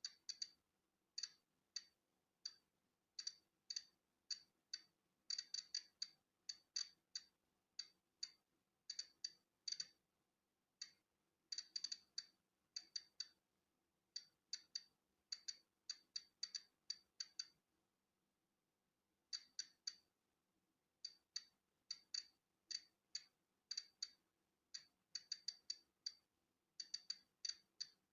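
Polon EKO-C digital Geiger counter clicking at random intervals, each click one detected count of natural background radiation. The clicks are short and sharp, several a second, unevenly spaced, with one gap of about two seconds a little past halfway.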